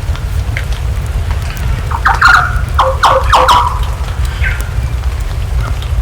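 Rain and a crackling wood fire, with a steady low rumble. About two seconds in, a bird calls several times in quick succession, the loudest sound here.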